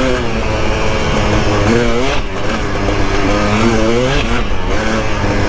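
KTM 300 XC-W dirt bike's single-cylinder two-stroke engine revving up and down under riding, its pitch climbing about two seconds in and again about four seconds in.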